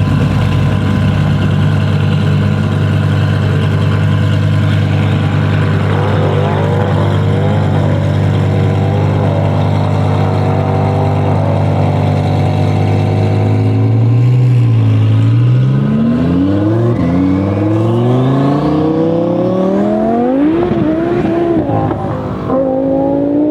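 Tuned twin-turbo Audi R8 V10 Plus engine running at a steady note, then accelerating hard from about fourteen seconds in. Its pitch climbs and drops back at several gear changes.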